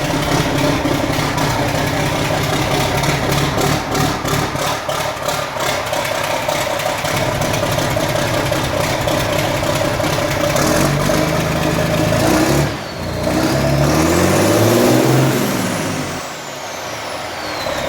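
A vehicle engine running, then revved: it runs steadily for about ten seconds, then its pitch rises and falls a couple of times in the second half. There is a short drop between revs.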